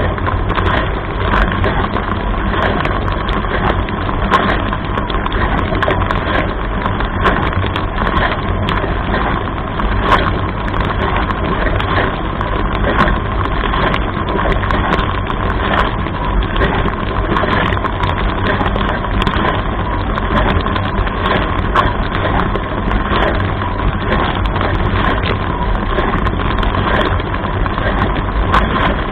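Dishwasher running a wash cycle: the steady rush of water jets spraying inside the tub over a low pump hum, with frequent small taps and knocks.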